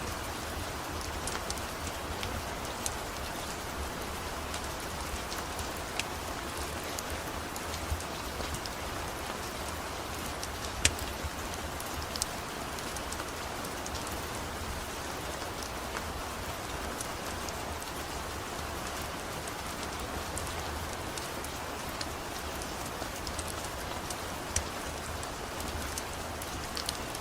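Steady rain falling, with scattered sharp clicks.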